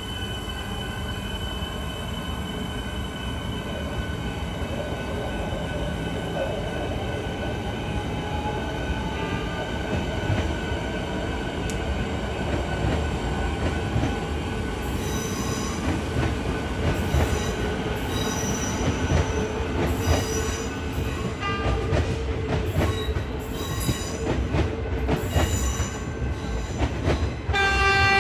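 A train passing through a station, its rumble growing louder, with a rising whine early on. From about halfway, on-and-off high-pitched wheel squeal comes in. A train horn sounds just before the end.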